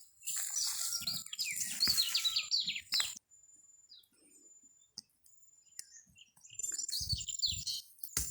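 Birds chirping in quick runs of short, falling notes: one long flurry near the start and another near the end. A thin, steady high tone comes and goes between them, and there are a few low thumps near the end.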